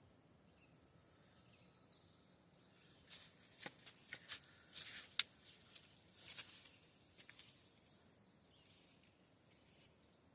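Quiet outdoor ambience. Between about three and seven seconds in comes a run of short, crisp rustles and clicks, then quiet again.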